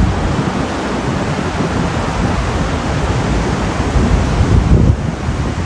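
Storm wind gusting across the microphone, its buffeting making an uneven low rumble over a steady rushing hiss; the gusts are strongest a little before the end, then ease.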